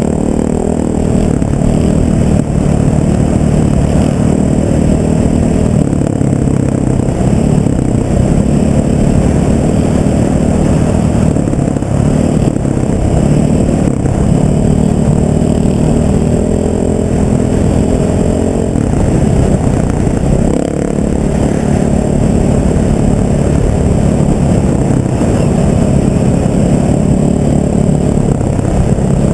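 Vehicle engine running while under way, its pitch rising and dropping back several times as the speed changes.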